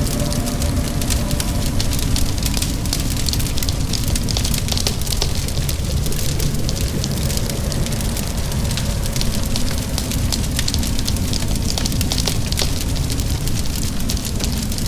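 Wood fire crackling with a dense run of small pops, over a steady low rumble and the hiss of rain.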